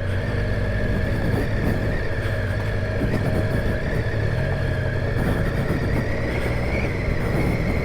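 Triumph Tiger 800 XCA's three-cylinder engine running at steady, nearly constant low revs while riding a rough dirt trail.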